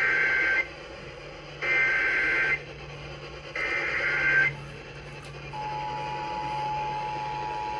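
Weather-radio emergency alert signal: three short bursts of two-tone digital data warbling, the coded SAME header that announces a new warning, followed about five and a half seconds in by a steady single alert tone held for about three seconds.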